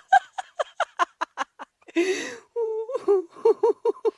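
A person laughing in quick runs of "ha-ha" pulses, about six or seven a second, broken by a loud drawn-in breath about two seconds in.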